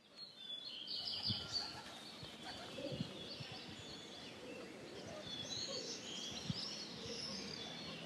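A morning chorus of swifts and swallows: many high-pitched chirps and screeches overlapping as the birds fly past, with a few soft low thumps.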